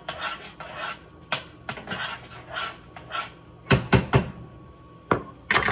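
Kitchen utensils working against a bowl and dishes: a run of soft, even strokes about three a second, then several sharp clinks and knocks in the last two seconds.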